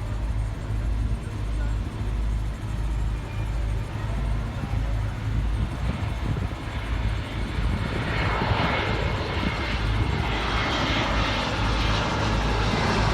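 Jet airliner on approach for landing, its engine roar growing louder from about eight seconds in, with a faint high whine over a steady low rumble.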